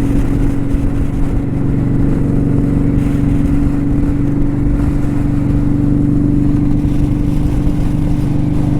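2018 Kawasaki Vulcan 900 Custom's V-twin engine running at a steady speed under way, its pitch holding constant over a low rumble.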